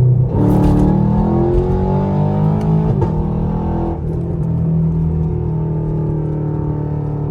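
Straight-piped 2017 Camaro SS's 6.2-litre V8 exhaust heard from inside the car under a hard pull. The revs climb from about half a second in, with a brief break near three seconds, then the throttle lifts about four seconds in and it settles into a steady lower drone.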